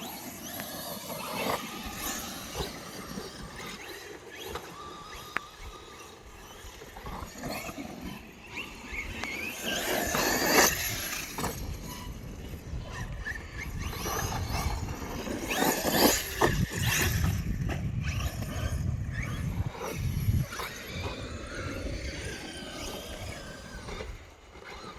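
Electric RC monster trucks running on 4S batteries, their motors whining up and down in pitch as they speed up and slow over dirt, with louder bursts about ten and sixteen seconds in.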